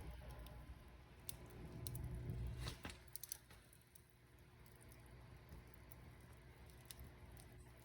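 Wood fire crackling faintly, with scattered sharp pops and a quick cluster of them about three seconds in, over a low rumble that fades after that.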